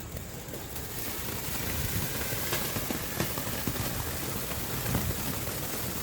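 Sky King Gold Feast fountain firework spraying sparks: a steady hiss that starts about a second in, with occasional sharp crackles.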